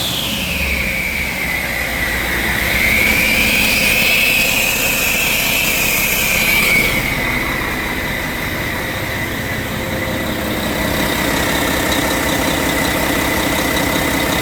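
Mack MP8-445E inline-six diesel engine running steadily at idle. A high-pitched whine falls away in the first second, rises a little around four seconds in, then holds steady.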